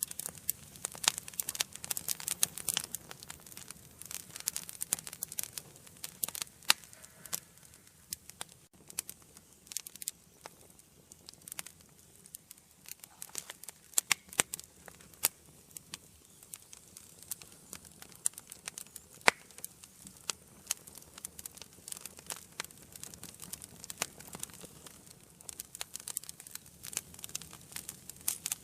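Wood fire burning in a fireplace, crackling with a steady run of sharp pops and snaps that thin out somewhat in the middle.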